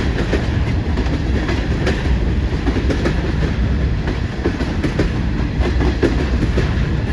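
Freight train cars rolling past at close range: a steady heavy rumble with wheels clicking and clanking irregularly over the rail joints.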